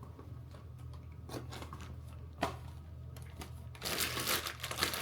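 Rustling and crinkling, as of plastic or paper being handled, for about the last second, over a steady low hum, with a single click a little before the middle.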